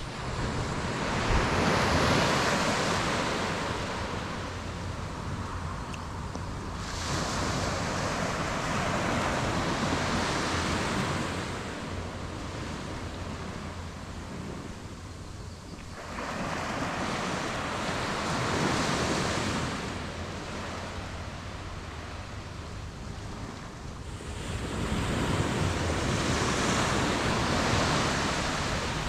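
Surf breaking and washing up a beach, swelling and easing about every eight seconds, with some wind on the microphone.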